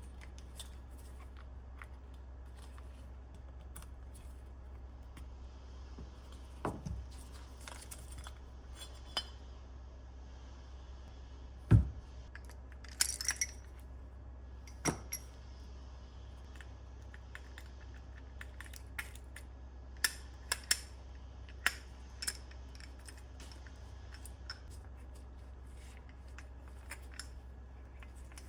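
Scattered metallic clicks and clinks of hand tools and small parts being handled, with the sharpest knock about twelve seconds in and a quick cluster some twenty seconds in, over a steady low hum.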